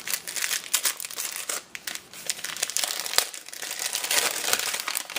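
Crinkling and rustling of plastic packaging and paper as craft supplies are handled and unwrapped, with a sharp click about three seconds in.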